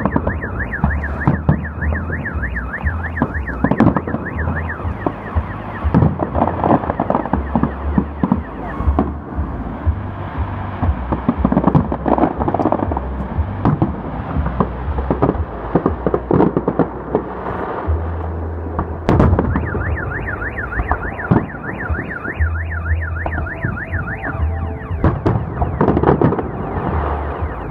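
Salute fireworks going off in a rapid series of bangs over a low rumble. A car alarm wails in a fast up-and-down warble over them for the first few seconds and again for several seconds in the second half, most likely set off by the blasts.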